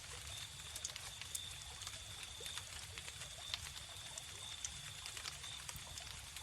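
Wood fire crackling, with frequent small sharp pops scattered irregularly, over a steady high-pitched cricket trill and a low rumble of the burning logs.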